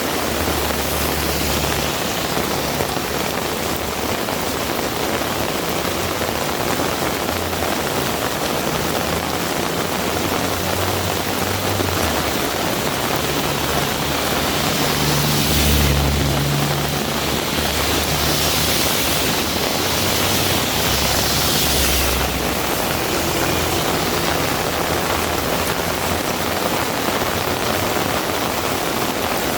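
Heavy rain pouring steadily. Midway through, a low rumble with a louder hiss of tyres on the wet road comes and goes: a vehicle passing.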